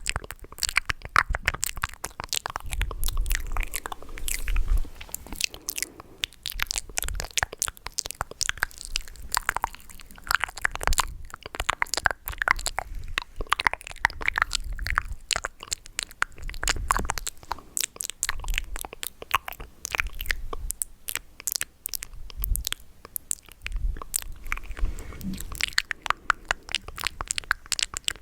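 ASMR mouth sounds made close to the microphone: a dense, irregular run of wet clicks and smacks, with occasional low thumps.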